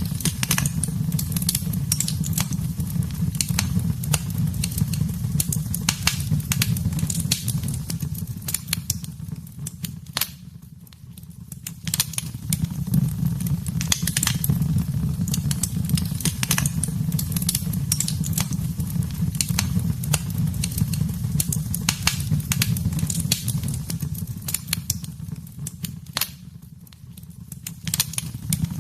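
Wood fire in a fireplace crackling, with frequent sharp pops and snaps over a steady low rumble of the flames. The sound dips and grows quieter twice, about ten seconds in and again near the end.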